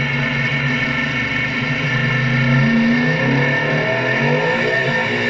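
Street race car's engine running loud, heard from inside the cabin while the car is driven, its pitch wavering up and down in the second half.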